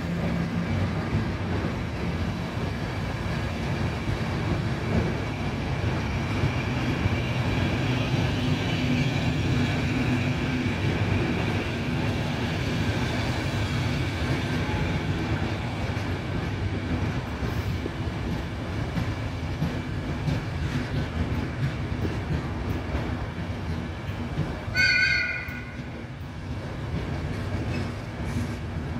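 Trenitalia Intercity passenger coaches rolling slowly along the platform: a steady rumble of wheels on rails with a faint high squeal running through it. Near the end there is a brief, loud, high-pitched squeal.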